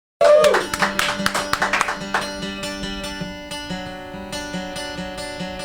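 Acoustic guitar playing a country song's intro. It cuts in abruptly with busy strumming for about two seconds, then settles into steady rhythmic chords.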